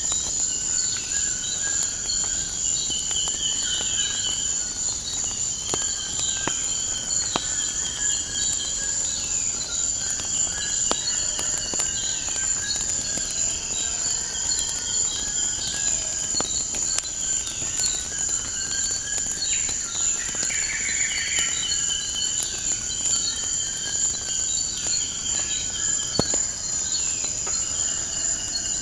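Crickets trilling in a steady high chorus, with birds chirping repeatedly and the scattered sharp crackles of a wood fire.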